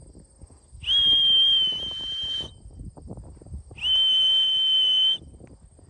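Two long, steady high-pitched whistle blasts, each with a slight upward slide at the start, about a second apart: a fancier whistling his racing pigeons down to the loft trap.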